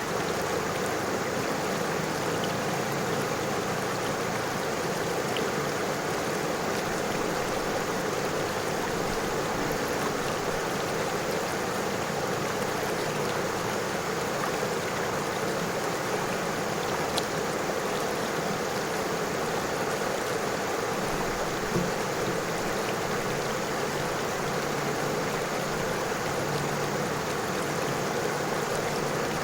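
River water flowing and rippling over stones: a steady, even rushing.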